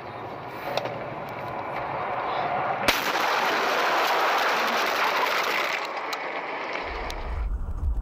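Vehicle road noise picked up by a dashcam, growing louder, with one sharp crack about three seconds in. The sound changes abruptly near the end to a low rumble.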